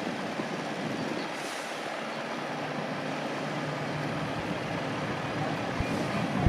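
Steady road traffic noise, with the engines of heavy trucks running on the road.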